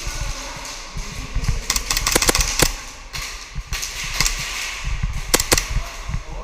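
Airsoft gas pistols firing: a quick string of sharp shots about two seconds in, then single shots near four seconds and a close pair near five and a half seconds.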